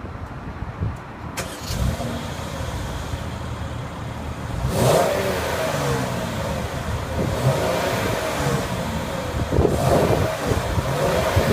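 2014 Mercedes-Benz ML350's 3.5-litre direct-injection V6 running, with a click about a second in, then revved several times from about five seconds in, its pitch rising and falling.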